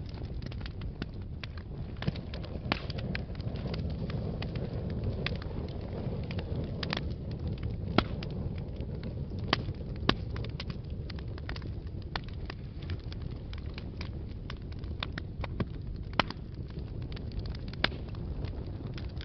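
Wood fire burning in a fireplace: a steady low rumble of flames under frequent sharp crackles and pops, several of them louder than the rest.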